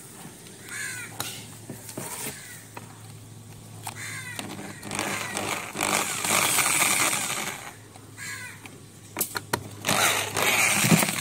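A screw being worked out of a washing machine's drum-motor mount: two stretches of grinding, rasping noise a few seconds long, the second near the end, with a few sharp clicks between them.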